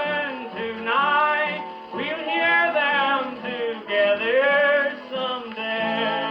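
1940s country string-band record playing its closing bars: a wavering melody line held and bent over steady string accompaniment, on a recording that lacks the highest frequencies.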